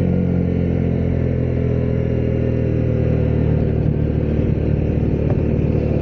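Honda CB125R's single-cylinder 125cc four-stroke engine running at steady revs while the motorcycle is ridden along a road, with a steady rushing noise over it.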